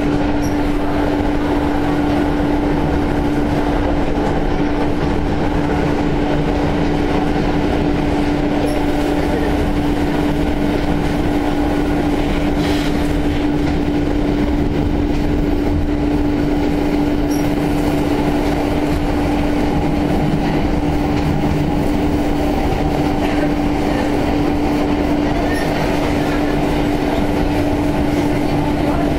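Inside an electric passenger train running at speed: a steady rumble of wheels on the track with a constant low hum, and occasional faint clicks from the wheels.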